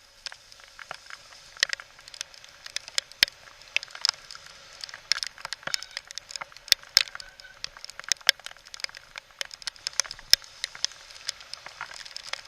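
Mountain bike riding down a trail in heavy rain: dense, irregular sharp clicks and taps over a steady hiss.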